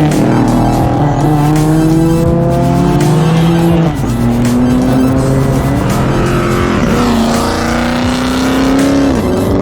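A performance car's engine accelerating hard, its pitch climbing steadily and dropping sharply at each upshift, about a second in, near 4 seconds, and again near the end.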